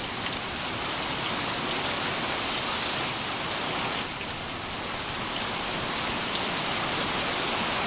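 Steady heavy rain from a strong thunderstorm, with occasional louder single drops striking close by.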